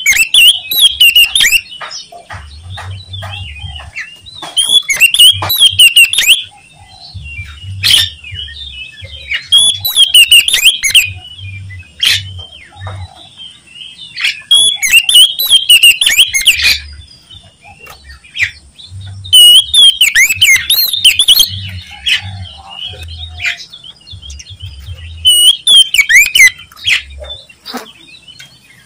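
Oriental magpie-robin (kacer) singing loudly in bursts of fast, varied, sharp phrases, one to two seconds each, about every five seconds, with short single calls in between.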